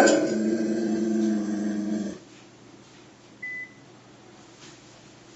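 Rhodesian Ridgeback giving a low, drawn-out growl for about two seconds that stops suddenly, while a leash is slipped over its head. A short high beep follows about three and a half seconds in.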